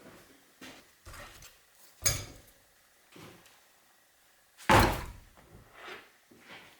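Several separate knocks and clunks of parts being handled and set down during workshop assembly work, the loudest about five seconds in.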